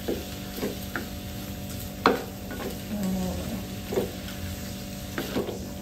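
Fermented cassava shoots and kepayang being stir-fried in a pan: a steady sizzle, with the stirring utensil knocking and scraping against the pan every half second to a second.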